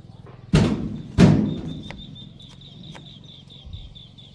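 Two loud thumps about two-thirds of a second apart, each dying away quickly, followed by a faint, rapid, high-pitched chirping.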